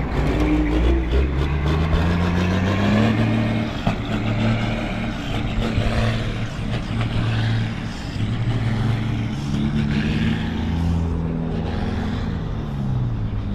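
Heavy diesel truck engine pulling under load, its pitch climbing, holding, climbing again and dropping near the end as the revs rise and fall through the gears.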